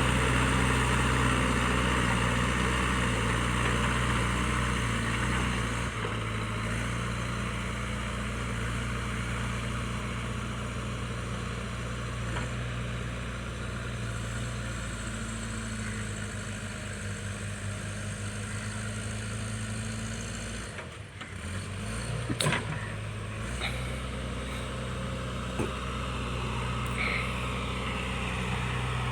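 JCB 3DX backhoe loader's diesel engine running steadily, its note shifting lower about a fifth of the way in. About three-quarters of the way through there is a brief break with a couple of sharp knocks, then the engine note comes back.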